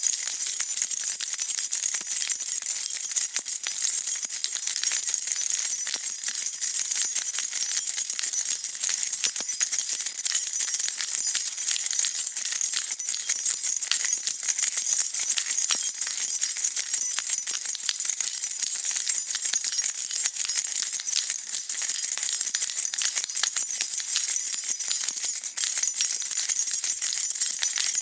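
A bunch of metal keys shaken without a break: a steady, dense jingle of many small high clinks.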